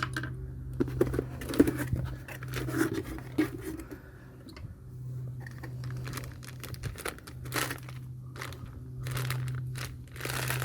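Packaging crinkling and tearing as a new brake rotor is unpacked, with scattered knocks and a steady low hum underneath.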